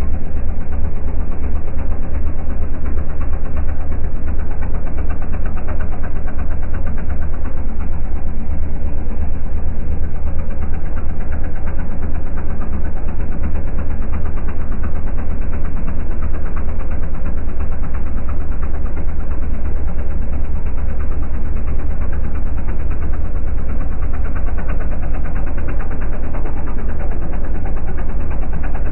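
Diesel drag car's engine idling steadily, with a deep, rapid, even knock and no revving.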